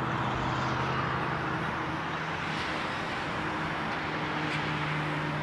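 Steady motor vehicle noise: a low, even engine hum under a broad hiss, holding level throughout.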